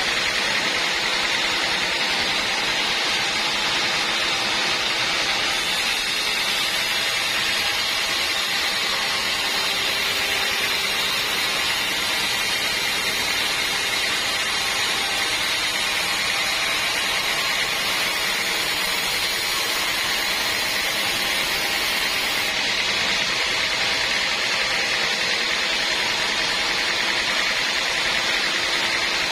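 Sawmill band saw running, a constant loud hiss with no let-up.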